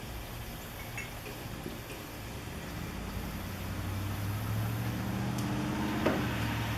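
A low steady mechanical hum that grows louder about halfway through, with a single light click near the end.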